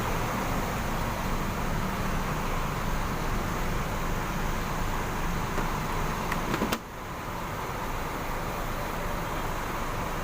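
Steady rumble of idling diesel bus engines. About two-thirds of the way through come a few sharp clicks, and the rumble suddenly drops to a lower level.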